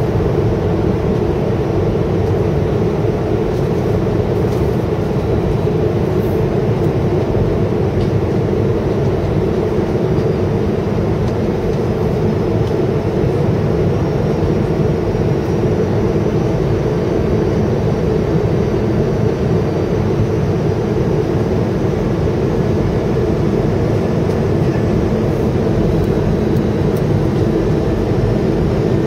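Steady rumble of airflow and engines inside an Airbus A320's passenger cabin in flight on approach.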